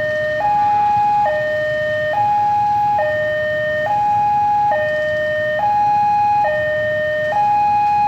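Electronic warning alarm of an Indonesian railway level crossing, sounding two alternating tones, a lower and a higher, each held a little under a second, repeating steadily as the crossing signals an approaching train.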